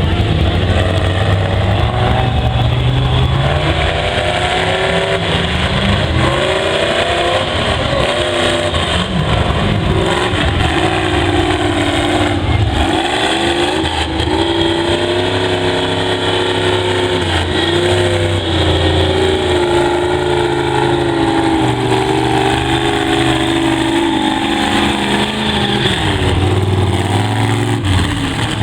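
Off-road mega truck engine revving up and down under load, its pitch rising and falling every few seconds.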